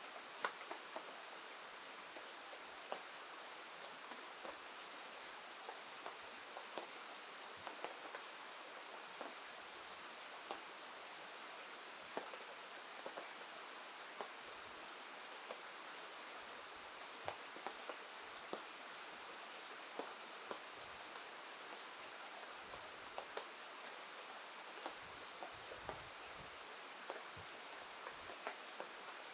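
Steady rain falling, a constant hiss with many sharp, irregular ticks of drops striking close by.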